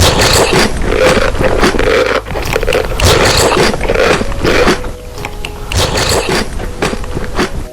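Noodles being eaten close to the microphone: a quick, irregular run of short eating noises with no talking.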